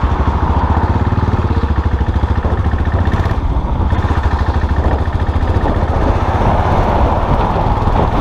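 Custom motorcycle engine running steadily, a rapid even beat of exhaust pulses.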